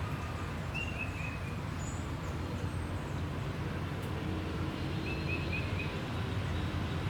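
Small bird chirping in two short runs of four or five quick notes, about a second in and again about five seconds in, over a steady low background rumble.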